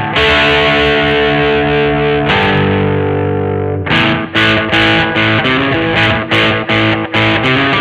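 1982 Vantage VE-550 electric guitar played with a distorted tone: picked notes and chords, with one chord left ringing for about a second and a half near the middle before quick picking resumes.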